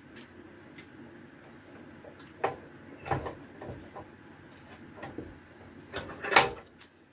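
Irregular metallic knocks and scrapes from a metal hand tool working over a fresh arc weld on a cast iron vice, cleaning the weld. There is a cluster of strokes about three seconds in, and the loudest knock comes near the end.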